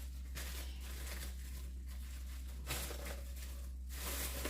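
Plastic bags rustling and crinkling as they are handled, in bursts that are loudest about three seconds in, over a steady low hum.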